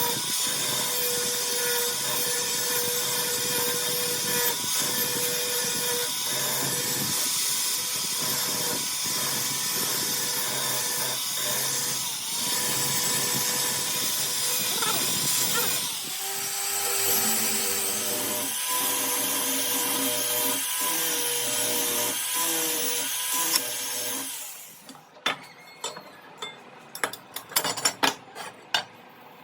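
A power grinder works the steel of a circular saw blade with a steady, high-pitched grinding noise, then stops suddenly about 25 seconds in. A run of sharp metallic clinks and taps follows as metal pieces are handled.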